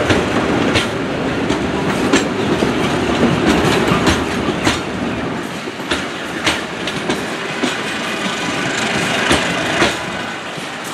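Former JR East 205 series electric commuter train rolling slowly over points and rail joints: steady wheel-on-rail rumble with a string of sharp, irregular wheel clacks.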